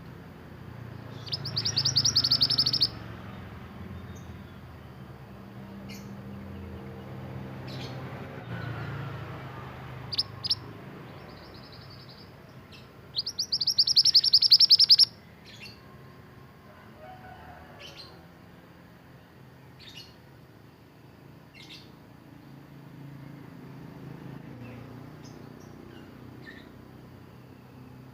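Mantenan songbird singing: two loud, rapid trills of high notes, one about a second in and one about halfway, with short high chirps scattered between.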